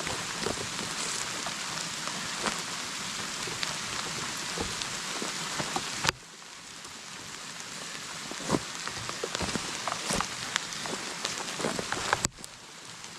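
Heavy rain falling steadily, a dense hiss with scattered sharp drops. It drops suddenly in level about halfway through and again near the end, then builds back up.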